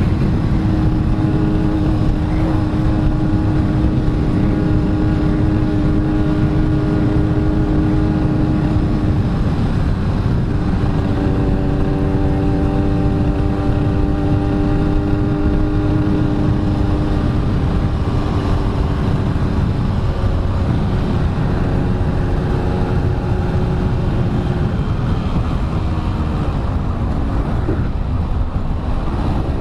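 Yamaha RX-King's 135 cc two-stroke single-cylinder engine running under way at a steady note over a heavy low rumble. The note breaks off and settles slightly lower about ten seconds in, breaks again about twenty seconds in, and dips then climbs again near the end.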